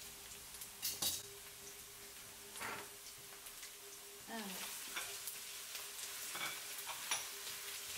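Chopped onion frying in oil in a pan, a steady sizzle, with a few clicks and scrapes of a utensil stirring it.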